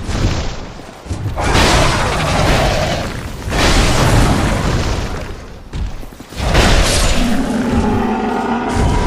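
Loud booms with rumbling noise, in about four surges one after another. A steady pitched tone comes in near the end.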